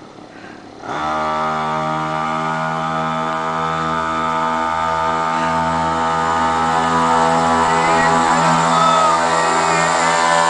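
Mini moto's small engine starting up suddenly about a second in after stalling, then running at a steady speed and growing slightly louder.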